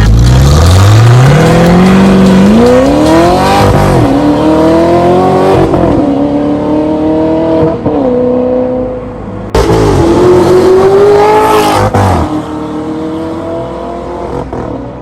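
Audi R8 with an aftermarket KWT stainless-steel exhaust accelerating hard. The engine note climbs steeply and drops back at each of several upshifts. About two-thirds of the way through it cuts abruptly to another loud pull.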